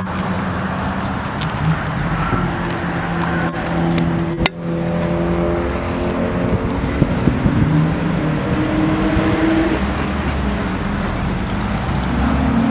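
Car engines running at low revs, the note steady at first, then shifting up and down as cars move off and rev lightly, with one sharp click about four and a half seconds in.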